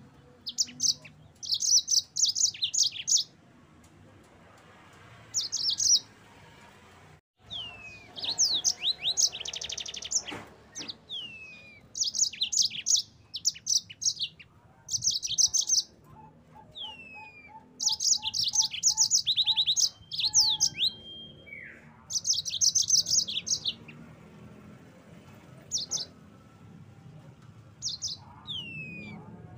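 Yellow-fronted canary (Mozambique canary) singing: bursts of fast, high trills of a second or two each, with downward-slurred whistled notes between them, phrase after phrase.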